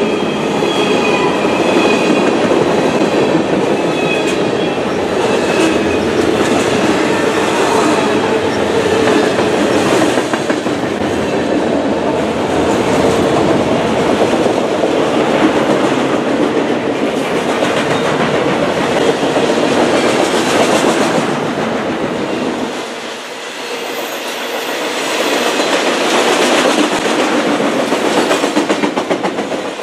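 CN freight train cars rolling past, wheels clacking over the rail joints over a steady rumble, with a faint high wheel squeal in the first few seconds. The deep rumble drops away abruptly about 23 seconds in, leaving the higher rolling noise.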